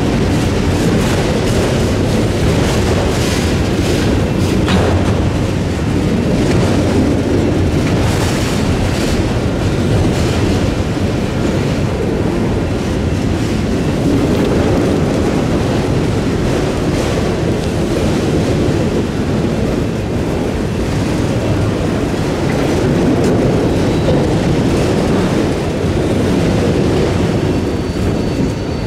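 Freight train rolling past: a steady, loud rumble of wheels on the rails with scattered clicks.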